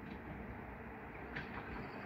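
Distant passenger train hauled by a 060-EA electric locomotive approaching on the rails: a steady low rumble, with a few sharp clicks of wheels over the track starting about one and a half seconds in.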